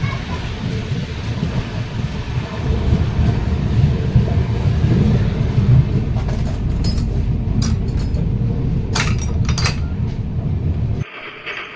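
Rumble of a passenger train coach running at speed, with several sharp metallic clinks and rattles in the second half. The noise cuts off suddenly near the end.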